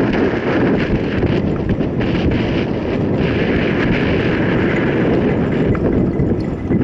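Wind buffeting the microphone of a camera riding along on a mountain bike, a steady rumble with scattered knocks from the bike on the trail.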